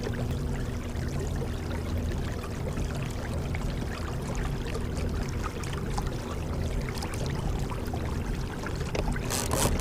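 Water trickling and lapping along a kayak's hull as it trolls, with a faint steady hum underneath. Near the end a rapid clicking starts: the fishing reel's line clicker, as a fish takes line on the strike.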